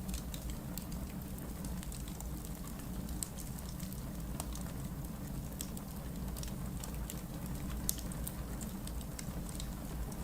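Wood logs burning in a fireplace, crackling with frequent irregular pops over a steady low background noise; one sharper pop about eight seconds in.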